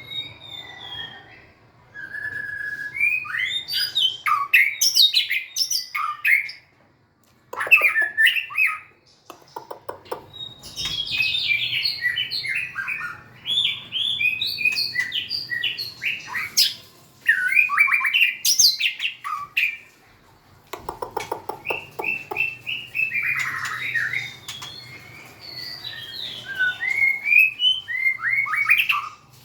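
White-rumped shama singing: long phrases of quick, varied whistles and chirps, broken by short pauses, with a few fast rattling notes mixed in.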